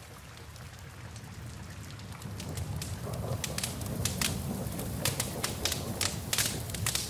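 Wood fire crackling in a fireplace, with sharp pops and snaps over a steady hiss of rain. About two and a half seconds in, the crackling grows busier and the low rumble of the flames gets louder.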